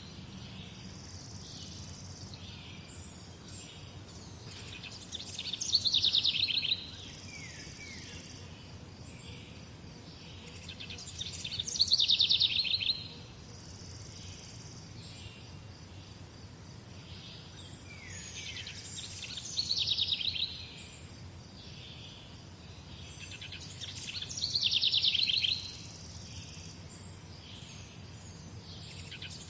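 A songbird singing the same short trilled phrase five times, about every six seconds, each lasting about a second and a half. Fainter chirps sound between the phrases, over a steady low background rumble.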